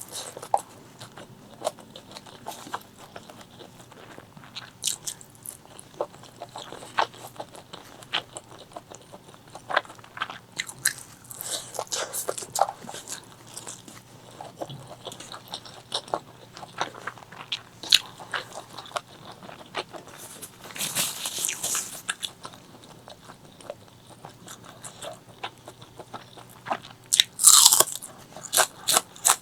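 Close-miked eating of chicken liver, gizzard and rice: steady chewing with many small crunches and mouth clicks. A longer noisy stretch comes about two-thirds of the way in, and a louder burst near the end slides down in pitch.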